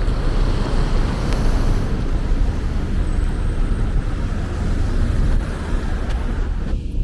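Steady road traffic noise of a city street, a continuous low rumble of passing vehicles with no single event standing out.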